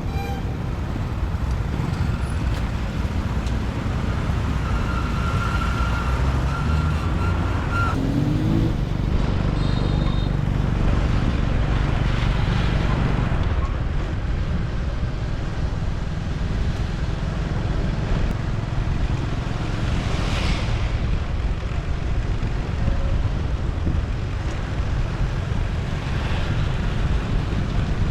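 Road traffic heard from a moving motorbike: a steady low rumble of engines and road noise, with a few short tones from passing vehicles over it.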